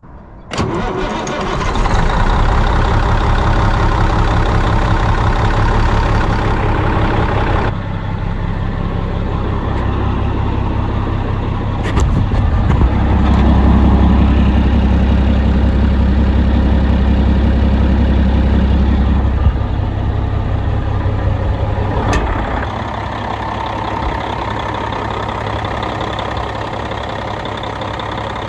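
Western Star 4964F truck's Caterpillar diesel engine starting and running, then settling into a steady idle. Its note is heaviest and deepest for several seconds around the middle and eases off about two thirds of the way in.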